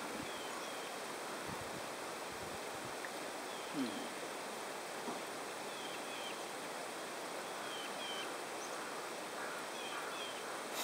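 Outdoor ambience: a steady hiss, with short high bird chirps in pairs repeating every couple of seconds, and a brief low falling sound about four seconds in.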